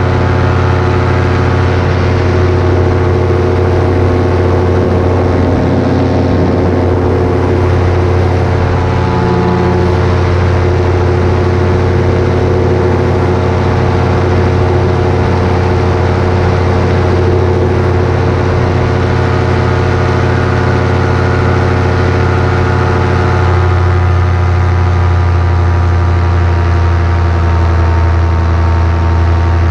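Paramotor's two-stroke engine and propeller running steadily at power, loud and close. The engine note shifts slightly about three-quarters of the way through.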